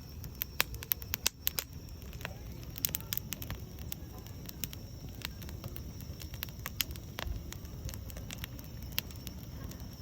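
Wood campfire crackling, with irregular sharp pops that come thickest in the first couple of seconds, over a low steady rumble.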